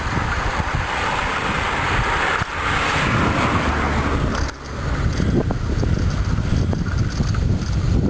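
Wind buffeting the microphone of a camera carried on a moving bicycle: a steady rumbling rush that dips briefly about four and a half seconds in.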